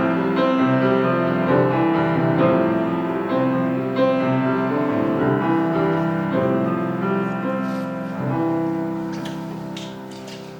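Piano playing a slow piece in sustained chords, the sound gradually dying away over the last few seconds, with a few faint clicks near the end.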